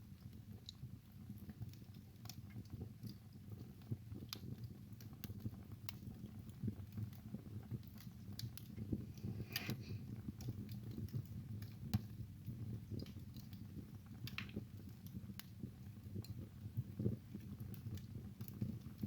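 Wood fire burning in a fireplace: a steady low rumble of flames under irregular crackles and sharp pops, a few louder pops standing out, the sharpest about halfway through.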